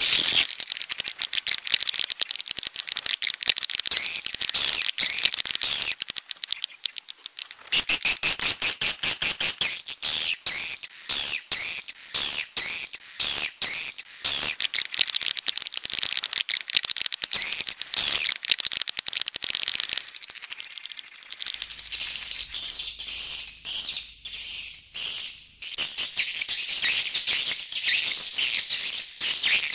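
Swiftlets twittering: a dense, continuous stream of rapid high chirps and clicks, with a quieter stretch about two-thirds of the way through.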